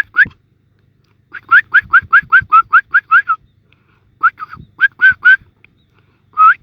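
Sparrow nestlings giving begging calls: bouts of short, rising chirps, about five a second, with pauses of a second or so between bouts.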